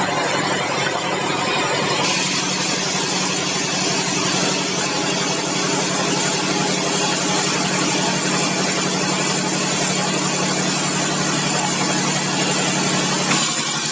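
Sawmill machinery running steadily: a constant engine-like hum under a wide hiss, which grows brighter about two seconds in.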